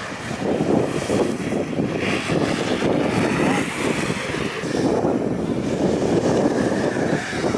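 Wind buffeting the microphone during a snowboard run: a rushing, rumbling noise that swells and dips, then cuts off abruptly near the end.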